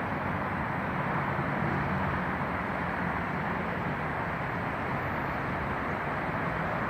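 Steady hum of road traffic, an even noise without breaks with a low engine drone beneath it.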